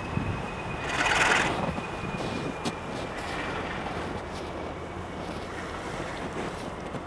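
Train rolling by, a steady low rumble under a thin, high squeal that slowly falls in pitch, with a gust of wind on the microphone about a second in.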